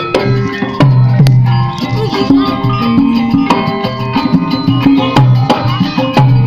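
Campursari band playing an instrumental passage through a PA during a sound check: hand-drum strokes in a steady rhythm over a bass line and held melodic notes, with no singing.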